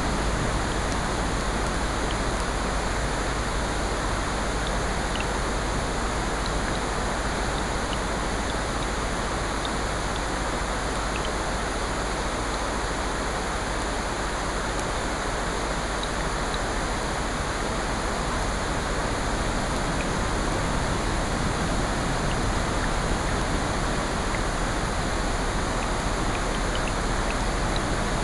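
Steady, unbroken rushing noise of rain and ocean surf blended together, with faint scattered crackles from a fireplace.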